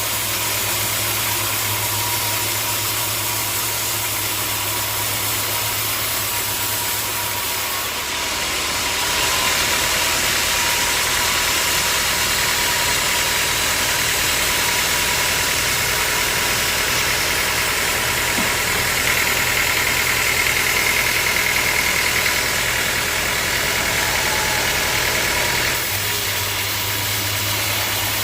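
Sawmill machinery running steadily with an engine-like hum. About eight seconds in, it grows louder and brighter, as the saw cuts through a log, and it drops back near the end.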